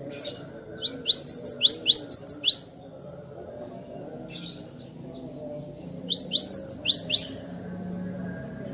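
Cinereous tit (glatik batu) singing: two quick runs of short, sharply rising whistled notes, about nine in the first and six in the second, a few seconds apart.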